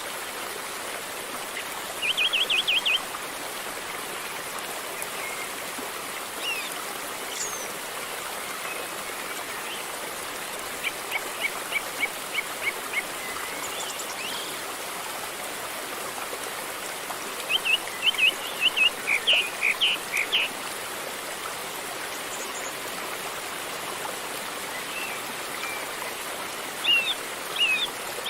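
A river flowing with a steady rushing, while birds call over it in short quick trills about four times.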